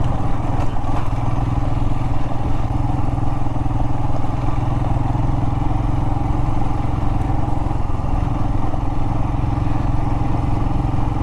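Royal Enfield Himalayan's single-cylinder engine running at a steady pitch while the motorcycle is ridden off-road over rocky desert ground.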